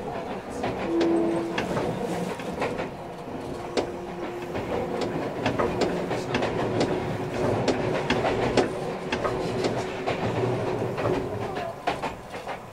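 Running sound heard inside a Meitetsu 2300 series electric multiple unit under way: wheels clicking over rail joints over a steady rumble. A steady mid-pitched tone joins in for most of the middle of the stretch.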